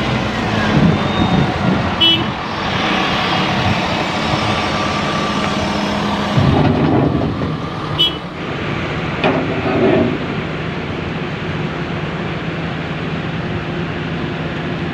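Heavy diesel machinery at work, the excavator and dump truck engines running steadily, with a few sharp clanks about two and eight seconds in.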